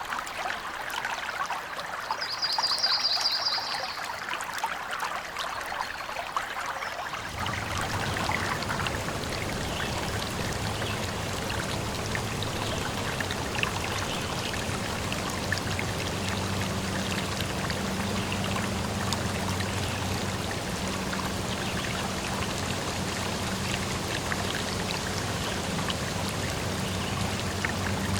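Flowing stream water trickling and pouring, with a short high trill about two seconds in. About seven seconds in, the water turns to a fuller, slightly louder rush with a low steady hum under it that continues.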